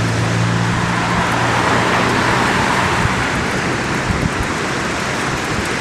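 A motor vehicle's engine hum passing and fading out about two and a half seconds in, over a steady rushing noise of road traffic and wind.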